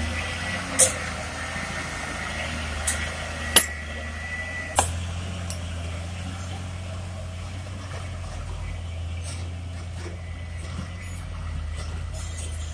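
Ten-wheel dump truck's diesel engine running steadily with a low hum. Several sharp clicks or knocks come in the first five seconds, and a faint high whine stops about five seconds in.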